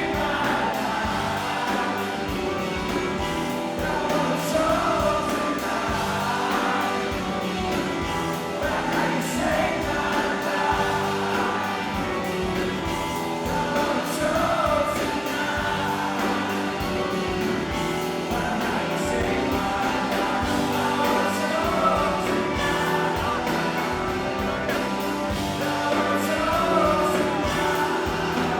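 A rock band playing live, with a lead vocal sung over the band.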